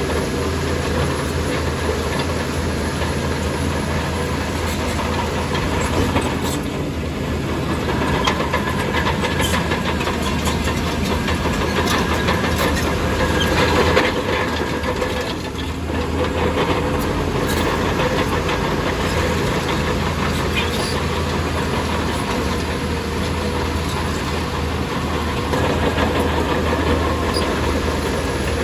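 Heavy diesel earthmoving machinery running steadily under load, with metallic rattling and clanking over a low engine drone; the sound eases briefly a little past the middle.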